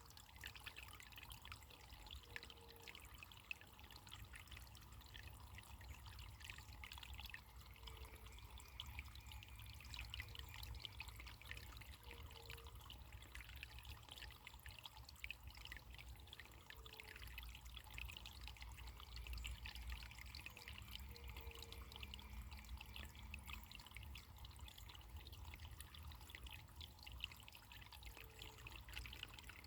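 Faint running water trickling steadily, a small stream or brook burbling without pause.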